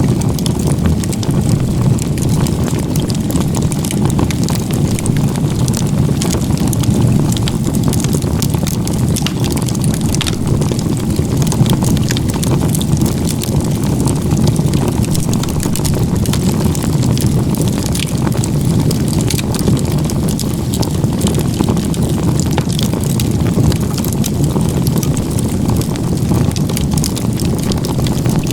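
Firewood burning in a log-cabin (igeta-gumi) stack: a steady low rumble from the fire with scattered crackles and pops from the wood.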